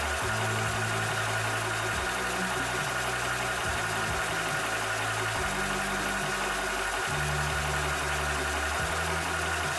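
Cobra high-pressure PCP air compressor (300 bar) running steadily as it pumps. It makes a constant mechanical hum with a steady higher tone, and the low part of the hum shifts in pitch every second or two.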